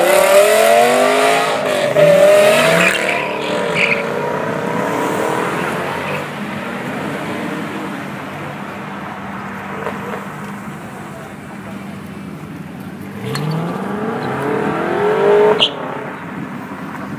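BMW saloon's engine accelerating hard away, its pitch rising, dropping at a gear change about two seconds in, rising again and then fading into the distance. Near the end another car's engine revs up with a rising pitch and cuts off sharply.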